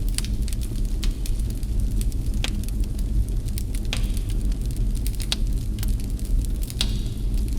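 Wood fire crackling in a fireplace: sharp, irregular pops and snaps about once a second over a steady low rumble, with two of the pops trailing off in a brief hiss.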